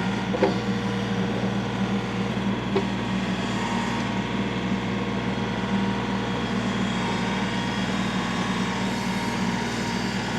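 An engine running steadily at a constant speed, a continuous hum with no revving.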